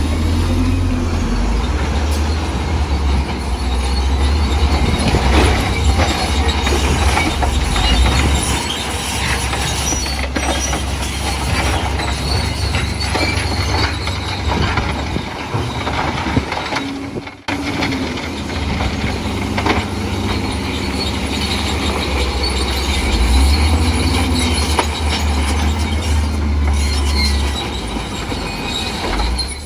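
Crawler bulldozer's diesel engine running under load, with its steel tracks squealing and clanking. The sound drops out briefly about halfway through.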